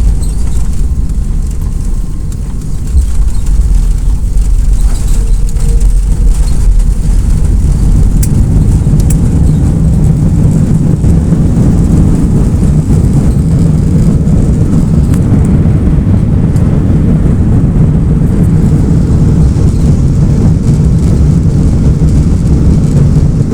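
Airbus A330-300 landing: a loud, steady low rumble that steps up at the start and again about three seconds in, then holds.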